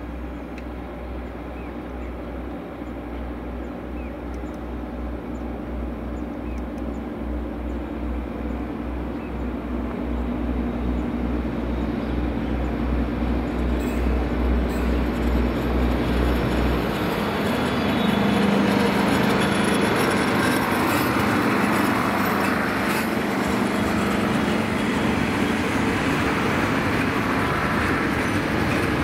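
Diesel railcar train approaching and passing close by, growing steadily louder. A low pulsing engine beat gives way, a little over halfway through, to the louder rumble and clatter of the cars going past.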